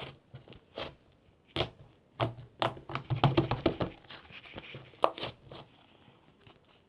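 Clay slime being pressed and squished by hand, giving a run of irregular sticky clicks and pops, most tightly packed about halfway through.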